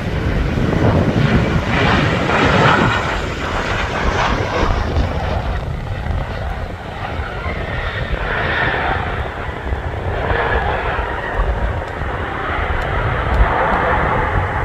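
Jet airliner's engines running loud, a noisy roar that swells and eases several times.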